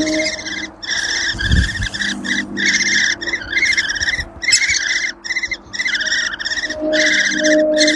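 A brood of great spotted woodpecker nestlings begging in the nest: a constant, rapid, buzzy chatter coming in bursts of about half a second to a second with short gaps.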